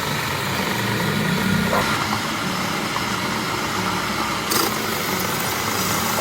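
A machine's motor running steadily with a constant hum.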